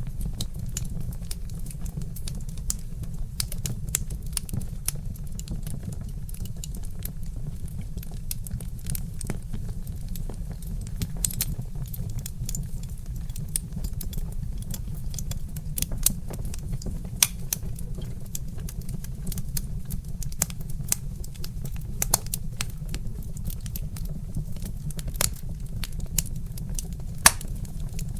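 Wood fire crackling: irregular sharp pops and snaps of burning logs over a steady low rumble, with one louder pop near the end.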